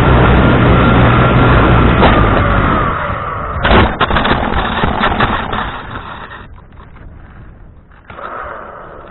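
Strong wind buffeting the microphone, with a faint whine sliding down in pitch and fading over the first two seconds or so. The wind noise crackles about three to five seconds in, then dies down to a much quieter rustle.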